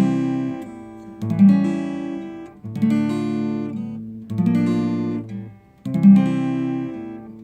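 Acoustic guitar chords struck one at a time, five in turn about every second and a half, each left to ring out and fade. This is chord-change practice, sounding each chord to check that it rings clean.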